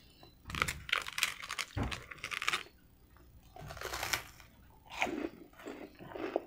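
Crunching bites and chewing of extra well-done, hard-toasted garlic bread. A long run of crunching comes about half a second in, with shorter bursts around four seconds and again near the end.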